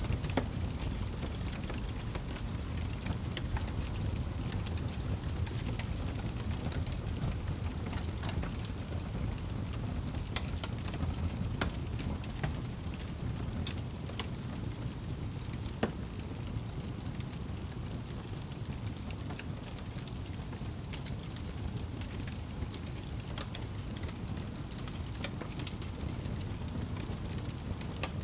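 Wood fire burning in a fireplace: a steady low rumble of flames with scattered crackles and pops, one sharper pop about halfway through.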